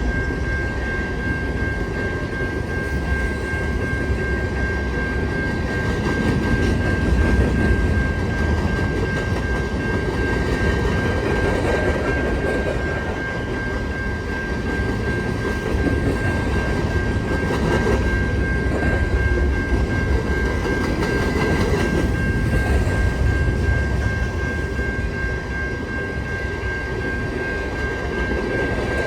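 Empty covered grain hopper cars of a long freight train rolling past, a steady rumble of wheels on rail with a constant high-pitched tone running through it.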